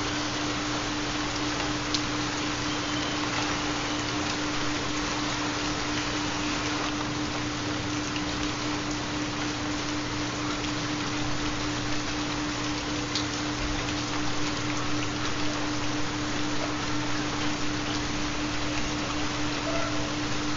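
Recorded rain, an even steady patter with the odd distinct drop tick. Under it runs a continuous low steady tone, the carrier of a 4 Hz theta binaural beat.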